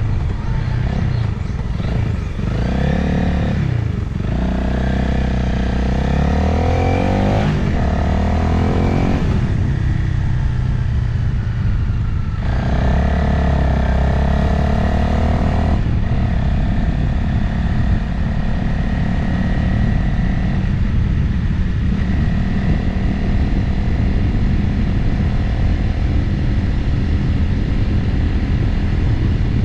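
Motorcycle engine under way, with wind rushing over the microphone. The revs rise and drop through several gear changes in the first fifteen seconds or so, then hold steady at cruise.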